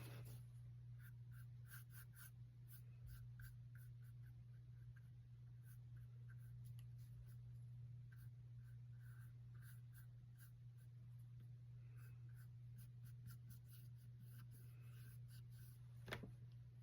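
Faint, repeated strokes of a paintbrush on canvas, applying acrylic paint, over a steady low hum.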